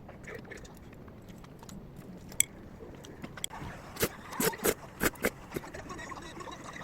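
Small hard objects clicking and clinking against one another: a single sharp click about two and a half seconds in, then a quick run of clinks about four to five seconds in.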